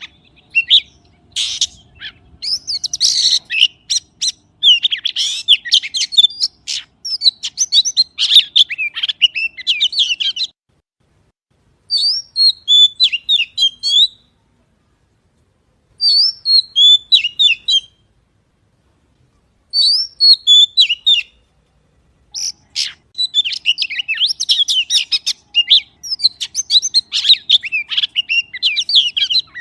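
Songbird singing in fast twittering chirps. A long dense stretch is followed by three short bouts of about two seconds each with quiet gaps between them, then a dense stretch again near the end.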